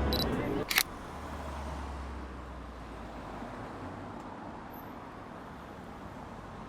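A camera shutter clicks once, under a second in, then a faint, steady background hiss of ambient noise.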